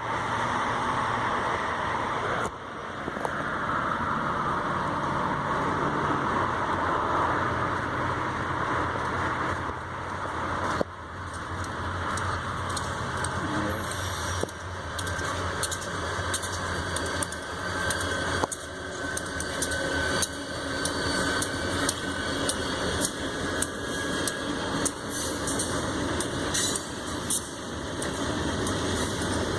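Diesel freight train running, a steady low engine drone under a noisy rumble, with many sharp clicks and knocks from about ten seconds in.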